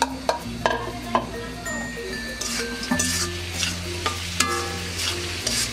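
Raw marinated chicken pieces sizzling in hot oil in a karai with onion and vegetables, as a spatula stirs them and clacks against the pan several times.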